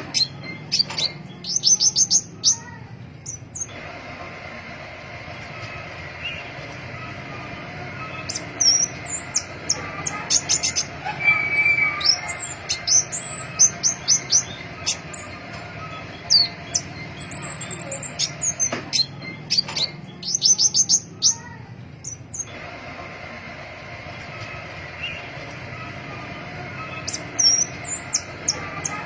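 Crimson-breasted flowerpecker (pentis pelangi) singing: thin, very high-pitched calls, many of them falling in pitch, repeated throughout, with a quick rattling run of about ten ticks twice. There is a steady background hiss under the calls.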